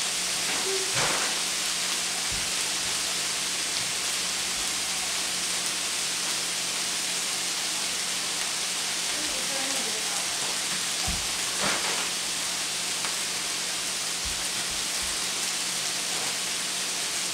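Sliced bell peppers and onions sizzling steadily in a skillet over a gas burner.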